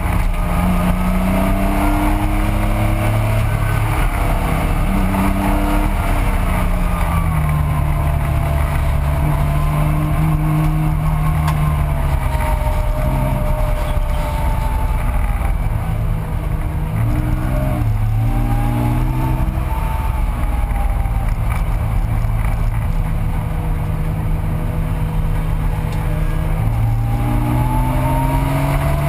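1985 Porsche 911's air-cooled flat-six engine at racing speed, heard on board. Its pitch climbs under acceleration and drops at each gear change, with a run of quick rises about two-thirds of the way through and a long climb near the end.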